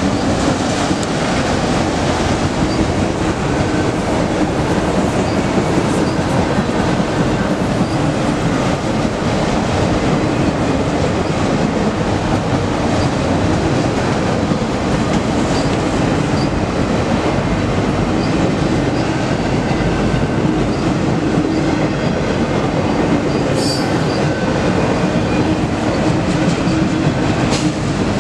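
Freight train of autorack cars rolling past: a steady rumble of steel wheels on rail, with faint high squeals recurring from the wheels and a couple of sharp clanks near the end.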